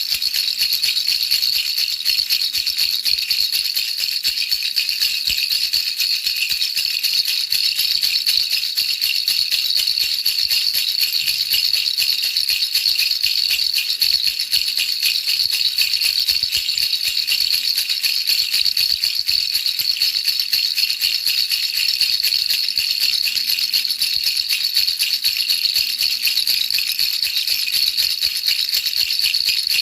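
Baby rattle shaken continuously: a dense, steady, high-pitched rattling of small beads without pauses.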